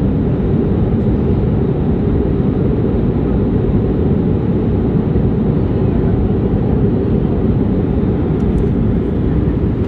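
Steady roar of an airliner's engines and rushing air, heard from inside the passenger cabin during the climb after takeoff.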